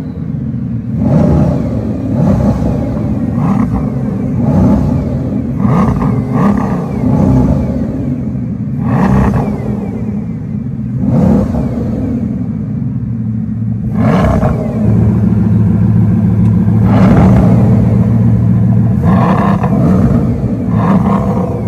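Bugatti Veyron Grand Sport Vitesse's 8-litre W16 quad-turbo engine, fitted with a Quicksilver titanium exhaust, revving in repeated rises and falls. Just past the middle it holds a steady note for a few seconds.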